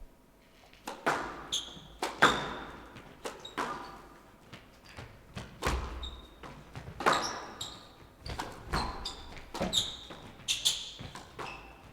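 A squash rally: the ball knocked by rackets and off the court walls about once a second, each knock echoing in the glass-walled court, with short shoe squeaks on the wooden floor between shots.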